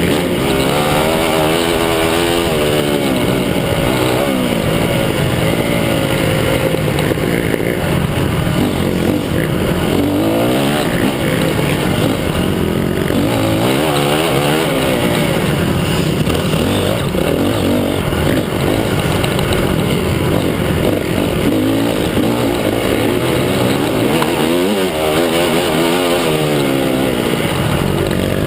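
Motocross bikes running on a dirt track, their engines revving up and down over and over as they accelerate and back off, several overlapping at once.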